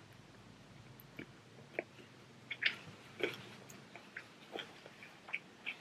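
Close-miked chewing of fried sausage: irregular wet mouth smacks and clicks, a few louder ones near the middle.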